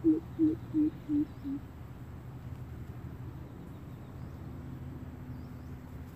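A bird's low hooting call: a run of short, evenly spaced hoots, about three a second, each with a slight upward lift at its end. The hoots fade and drop a little in pitch until they stop about a second and a half in, leaving a steady low hum.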